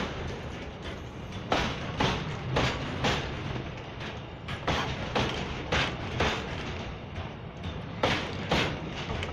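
Wheels of a passing double-stack container train's wagons clacking over rail joints: sharp knocks, often in quick pairs, over a steady rumble.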